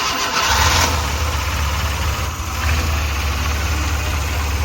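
Suzuki Carry 1.0 engine just after starting, settling from a brief higher-pitched run in the first second into a steady idle.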